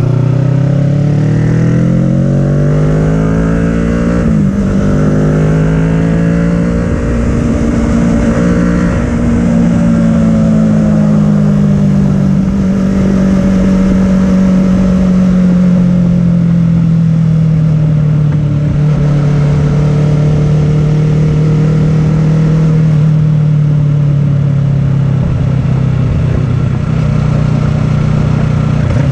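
Kawasaki Ninja 650's parallel-twin engine through an Arrow full-system exhaust, accelerating hard in third gear with rising revs, then shifting up to fourth about four seconds in, where the pitch drops sharply. It pulls up through the revs again, then the throttle is rolled off and the revs fall slowly as the bike slows, with steady wind rush throughout.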